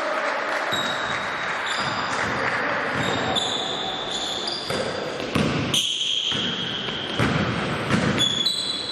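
Basketball play on an indoor court: basketball shoes squeak repeatedly on the floor in short high squeaks, and the ball bounces with a few sharp thuds, over a steady hall murmur.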